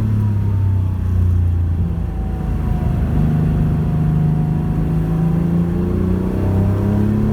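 Porsche 911 rally car's flat-six engine running under load, its pitch stepping up about three seconds in and climbing slowly near the end as the revs rise.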